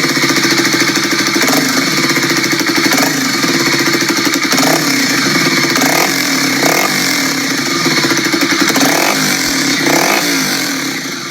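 An engine running steadily with a fast pulsing beat, fading away near the end.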